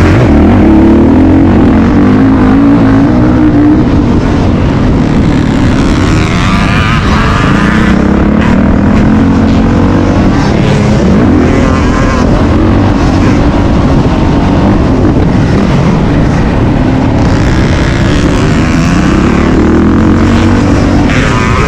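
Motocross dirt bike engine running hard and loud, its pitch rising and falling over and over as the throttle is opened and closed.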